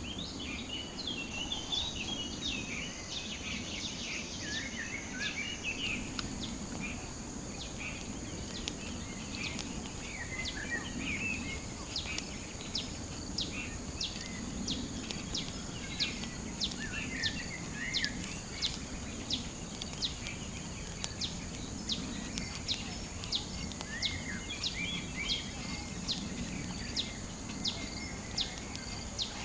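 Forest ambience: birds chirping on and off over a steady, high-pitched insect drone. An extra high insect tone joins about a second in and stops about six seconds in. From midway on, a steady run of sharp ticks sounds.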